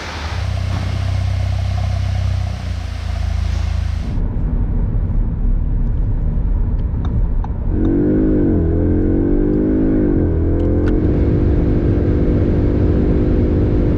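Audi S3's 2.0-litre turbocharged four-cylinder with an Akrapovic exhaust. First a rushing noise over a low engine drone, which changes abruptly about four seconds in. Then, about halfway through, the engine is revved in two quick blips that rise and fall, and settles to a steady run.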